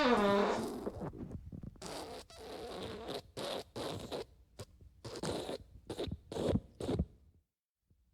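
Fart sound effects: one squeaky fart falling in pitch at the start, then a run of short fart bursts, then a brief silence near the end.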